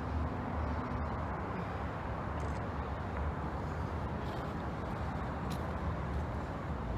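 Freight train led by a GE AC4400CW diesel locomotive, heard as a steady low rumble of the engines and train.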